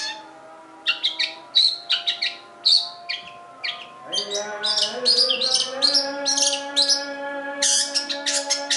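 Long-tailed shrike (cendet) singing a fast, jerky run of short, sharp chirps and mimicked calls, starting about a second in and growing denser in the second half. Under it runs a steady held tone that steps up in pitch about four seconds in.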